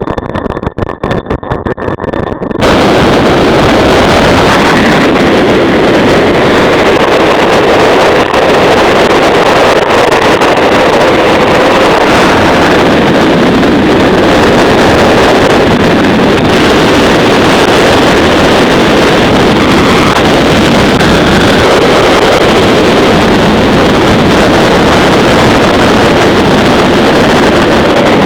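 Motorcycle engine running with heavy wind buffeting the microphone, a loud, steady rush that cuts in abruptly about two and a half seconds in after a choppier, quieter stretch.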